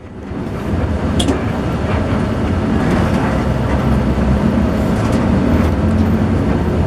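Steady low rumble of an intercity bus, heard from inside the passenger cabin.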